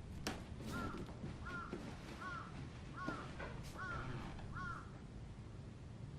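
A bird calling six times in an even series, about one call every three quarters of a second, with a sharp knock just before the calls begin.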